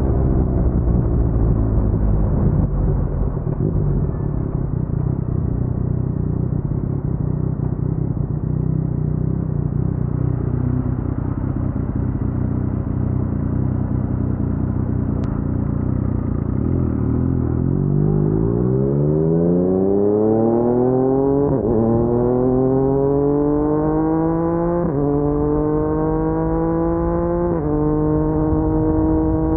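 Yamaha MT-09's crossplane three-cylinder engine through an Akrapovic full-system exhaust: a low, uneven rumble at low revs for most of the stretch, then it accelerates hard from about two-thirds of the way in, the pitch rising and dropping back with each of several quick upshifts.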